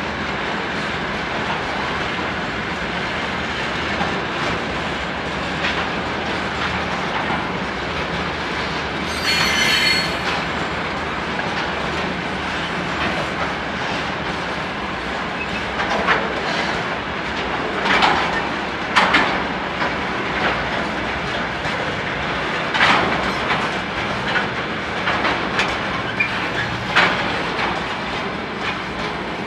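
Freight train of railway tank cars rolling past with a steady rumble of wheels on rail. A brief high wheel squeal comes about nine seconds in, and in the second half come sharp clanks as wheels cross rail joints.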